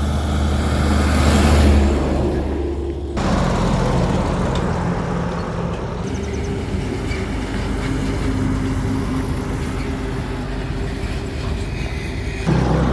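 Heavy truck engines running on the road, a steady hum with road noise. The sound changes abruptly about three seconds in and again near the end.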